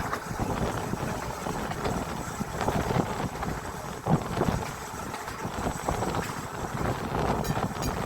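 Narrow-gauge electric tram running along its track, heard from on board: a steady, uneven rumble of wheels on rail with a louder knock about four seconds in.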